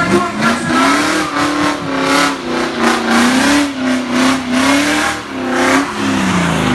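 Drift car's engine revving hard, its pitch rising and falling over and over as the throttle is worked through a drift, with a hiss of tyre noise over it; the revs drop away near the end.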